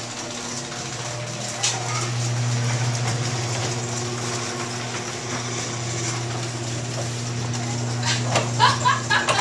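A steady low motor hum that stops about nine seconds in, followed by a short burst of a person's voice.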